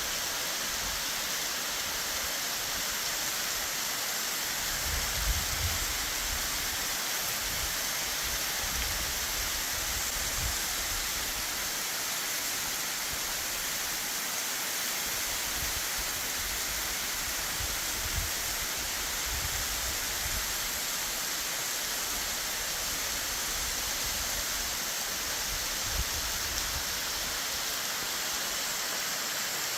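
Waterfall cascading off a cliff at high spring-runoff flow: a steady, unbroken rush of falling water, with a few brief low rumbles now and then.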